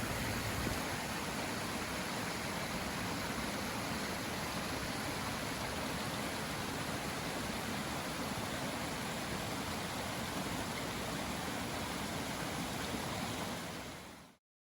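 Steady rushing of a bubbling woodland stream, fading out near the end.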